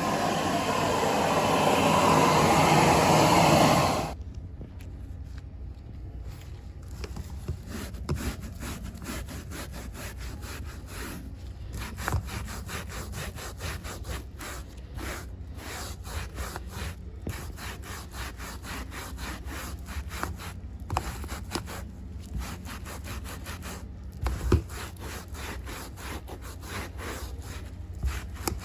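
A loud, steady rushing noise cuts off about four seconds in. Quieter scratchy rubbing strokes follow and keep repeating, typical of a carpet rake being dragged through carpet pile.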